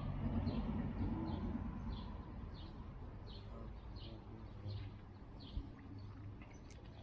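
A bird calling with a short, high, falling note, repeated steadily about once every two-thirds of a second, over a low outdoor rumble.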